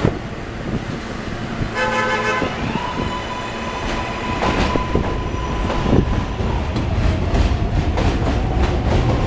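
R143 subway train departing: its horn sounds once briefly about two seconds in, then a steady high whine runs while it starts to move. In the second half its wheels clack rhythmically over the rail joints with a low rumble as it gathers speed.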